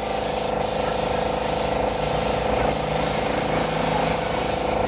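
Compressed-air spray gun hissing steadily, with short breaks in the hiss as the trigger is let off, over a steady hum.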